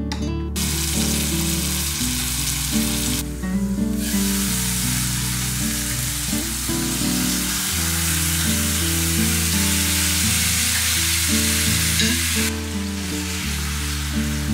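Food sizzling as it fries in hot oil in a pan, with a brief drop about three seconds in, stopping shortly before the end. Background music plays throughout.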